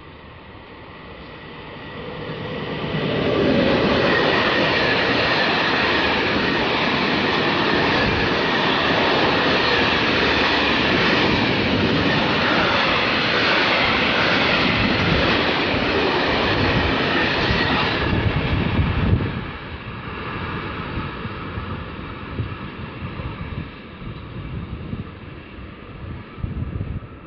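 Freight train of high-sided wagons passing close by, the rumble and clatter of its wheels on the rails building over a couple of seconds, then holding loud and steady. About two-thirds of the way through it drops off sharply.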